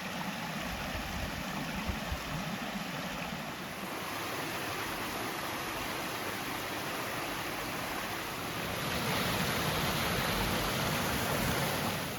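Water of a small mountain cascade rushing steadily over rocks, a little louder near the end.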